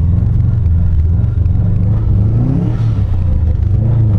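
2005 Subaru WRX's turbocharged flat-four engine revving under throttle, rising in pitch around the middle, as the wheels spin on snow on bald summer tires without getting the car moving.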